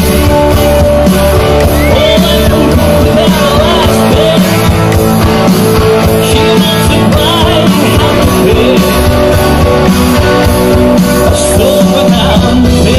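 Live rock band playing with a singer, heavy guitars, bass and drums, loud and dense throughout.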